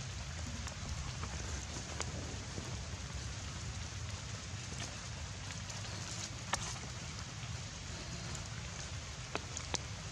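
Steady rain pattering, with a few sharper single drops striking now and then.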